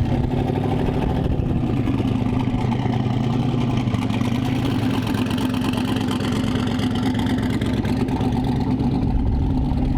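A car engine idling steadily with an even low hum, and a faint rising whine from about halfway in.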